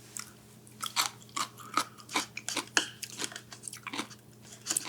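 A person chewing crunchy food close to the microphone: irregular crisp crunches, about two or three a second, starting about a second in.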